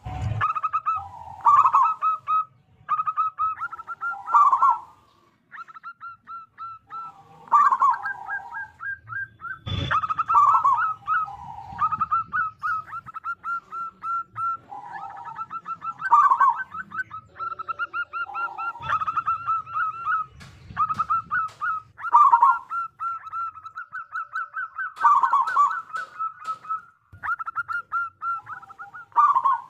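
Zebra doves (perkutut) cooing: phrase after phrase of fast, staccato, rolling coos, packed closely together. There are two sharp knocks, one at the start and one about ten seconds in.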